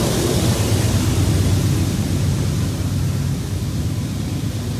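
Freight train of covered hopper cars rolling slowly along the track below, a steady low rumble with hiss above it.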